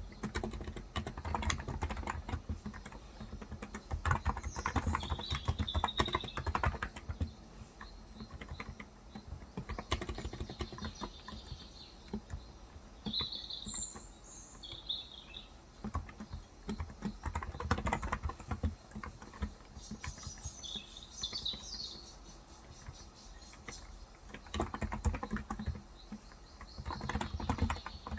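Typing on a Cox Endeavor electrostatic capacitive (Topre-style) tenkeyless keyboard with 35 g switches, key clacks coming in bursts with short pauses. Birds chirp briefly in the background several times.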